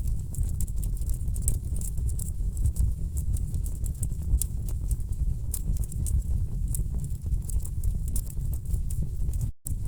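Wood fire crackling, with frequent sharp pops and snaps over a steady low rumble of burning logs. The sound cuts out for an instant near the end.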